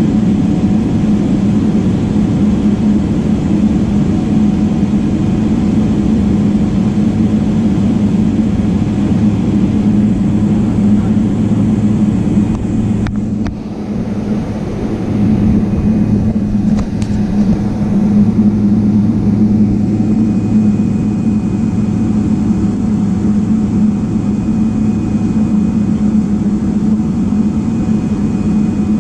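Steady drone of a jet airliner's engines and airflow heard inside the passenger cabin. About halfway the sound dips briefly, with a couple of faint clicks, and a thin high tone comes in near the two-thirds mark.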